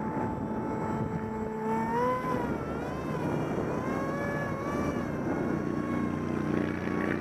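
Brushless electric motor (450-size, 2200 kV) spinning a 6x4 propeller on an RC foam Alpha Jet in flight. Its whine wavers up and down in pitch as the throttle is worked. Rough wind noise runs underneath.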